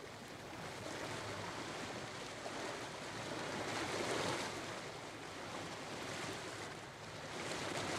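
Sea waves washing in, a steady rush of surf that swells about halfway through and rises again near the end.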